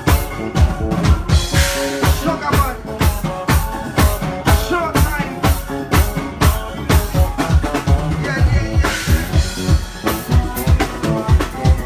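Live soca band playing an up-tempo groove, the drum kit keeping a steady kick-drum beat under pitched instruments, with cymbal crashes about two seconds in and again near the end.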